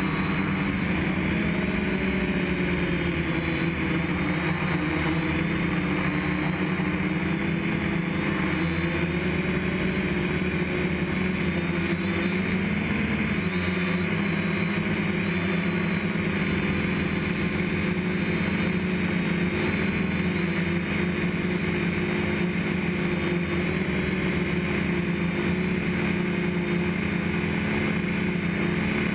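DJI F550 hexacopter's six motors and propellers running in flight: a steady drone whose tones drift up and down together as the throttle changes, with a thin steady high whine above it.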